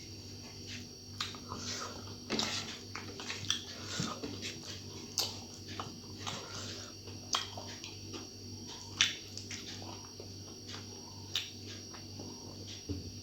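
Close-up eating sounds: chewing with wet mouth smacks and scattered sharp clicks, over a faint steady hum.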